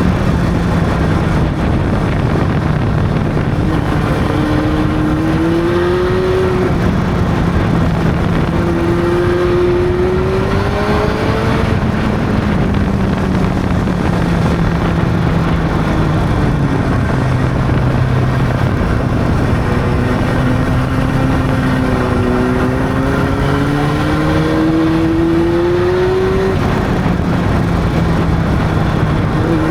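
Honda CB600's inline-four engine pulling through the gears. The pitch climbs steadily and drops back at each upshift, several times over, with an easing-off in the middle, over a steady rush of wind noise.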